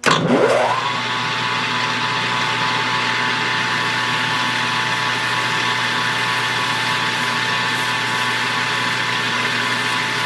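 Metal lathe spindle starting up, its pitch rising for about a second to speed, then running steadily with a steady high tone over a mechanical hum.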